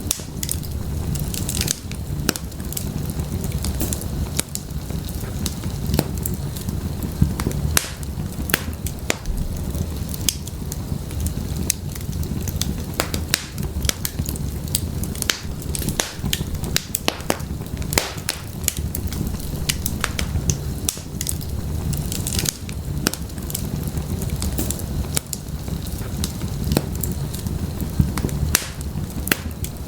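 Fire crackling in a fireplace: frequent irregular sharp pops and snaps over a steady low roar of the flames.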